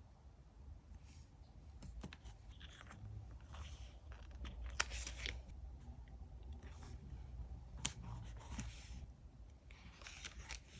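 Paper and stationery being handled for diary decorating: soft rustling and short scraping swishes, with a few sharp clicks, the loudest about five and eight seconds in.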